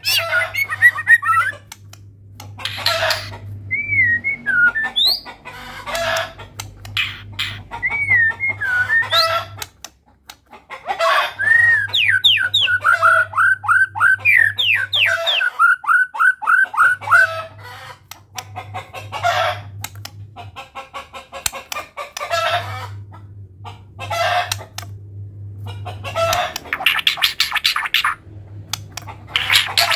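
White-rumped shama singing a long, loud, varied song of whistles, rattles and harsh notes, including chicken-like clucks, with a fast run of repeated falling notes about halfway through.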